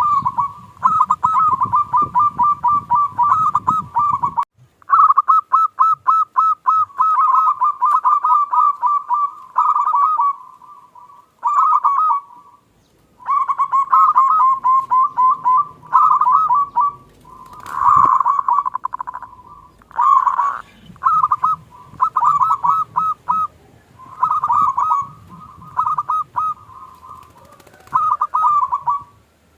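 Zebra doves (perkutut) singing: phrase after phrase of quick repeated coo notes, with short pauses between phrases. A low hum lies underneath for the first four seconds or so.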